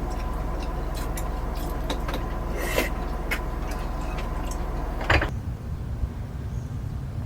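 A steady low mechanical hum with scattered light clicks and knocks. About five seconds in comes a louder knock, and the hum stops, leaving a quieter background.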